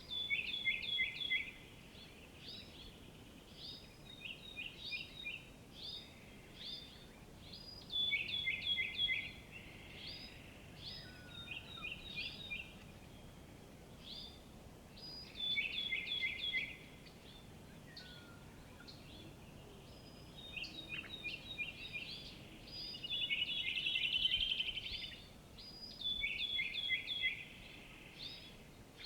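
Songbirds singing in a forest: one bird repeats a short, high phrase of quick falling notes every few seconds, with other birds chirping between phrases and a buzzy trill about three-quarters of the way through.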